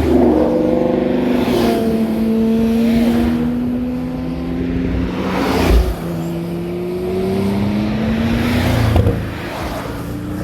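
Performance cars driving past one after another, engines revving and changing pitch through the gears. A sharp crack comes about six seconds in and another about nine seconds in.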